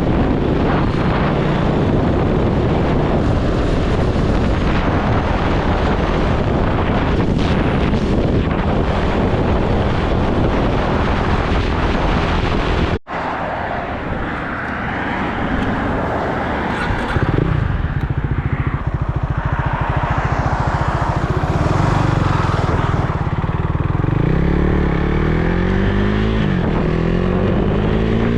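Motorcycle engine running on the move, mixed with a steady rush of noise. A sudden break comes about halfway through; afterwards the engine holds a steady note, then accelerates near the end, its pitch rising and dropping back with each gear change.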